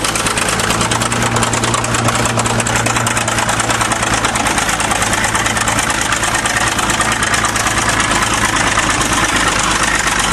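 Diesel engine of a 1953 International TD20 crawler bulldozer running steadily and loud with a rapid clatter, as the dozer works over a car to crush it.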